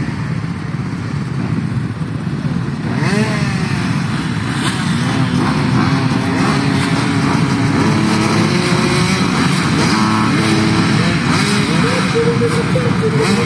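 Competition motorcycle engines running and revving, several at once. The sound gets louder about three seconds in, and from then on engine notes rise and fall at different pitches.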